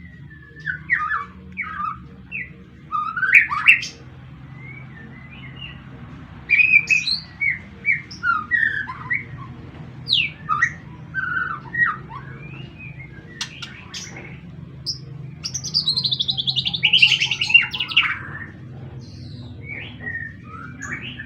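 Six-month-old juvenile white-rumped shama (murai batu) singing: a string of short, varied whistled phrases and chirps, with a longer rapid run of notes about sixteen seconds in, over a steady low hum.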